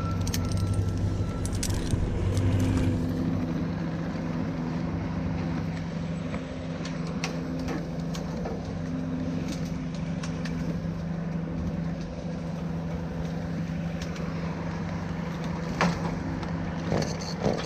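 An engine idling steadily, with scattered light metallic clinks and a couple of sharper knocks near the end.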